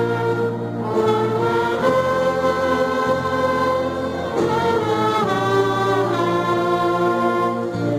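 Church orchestra playing a slow hymn in sustained chords, with the notes changing about once a second and some gliding between pitches.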